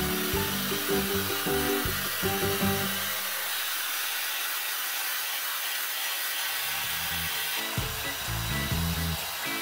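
Hair dryer blowing steadily, drying a freshly bathed cat's coat, with background music.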